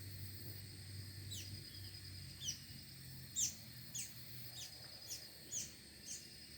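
A small bird calling in short, sharply falling chirps, about one or two a second and some louder than others, over a steady high-pitched whine.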